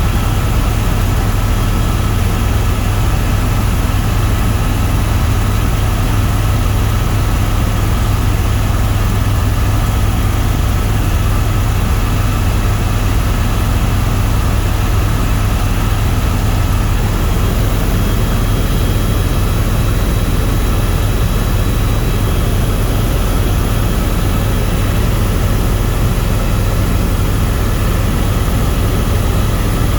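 Tour helicopter in flight: rotor and turbine engine running as a steady, loud, deep drone, unchanging throughout.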